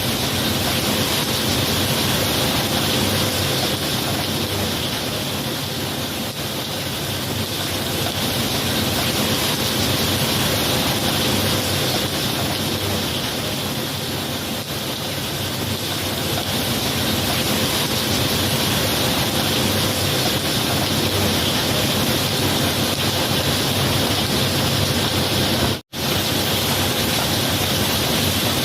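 Steady heavy rainfall, an even hiss of rain that swells and eases slightly, cutting out for an instant near the end.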